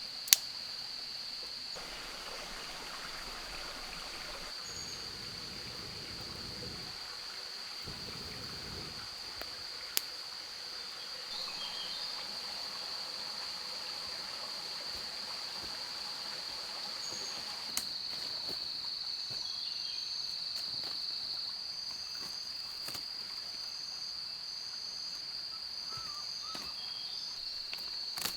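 Insects keep up one steady high-pitched drone over a faint background hiss. A few sharp clicks or knocks break in: a loud one right at the start, then one around the middle and a fainter one later.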